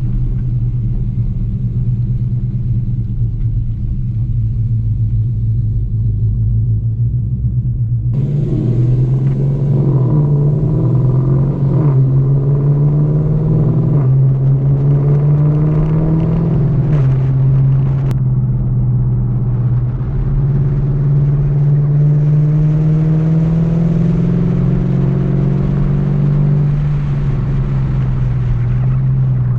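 Cammed 5.7-litre HEMI V8 of a Dodge Charger R/T with long-tube headers and catless mid-pipes, running at a steady low rumble. From about eight seconds in it pulls harder, its pitch rising and falling several times as the car accelerates and eases off around the track.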